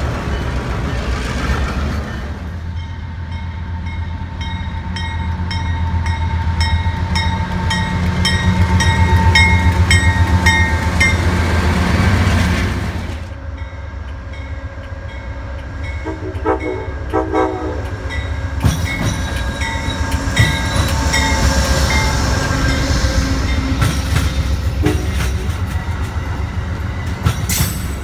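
CN diesel freight locomotives (GR-418d class) run close by with a heavy engine rumble and wheels clicking over the rail joints. About halfway through, an Amtrak passenger train's locomotive sounds its horn in short blasts. Its cars then pass with a steady clickety-clack of wheels on the rails.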